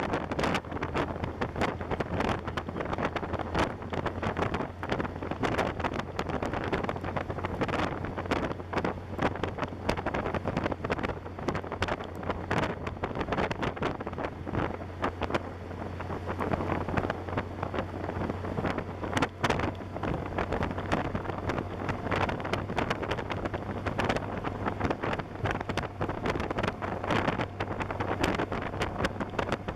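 A motorcycle under way, with wind buffeting the microphone hard over a steady low engine drone.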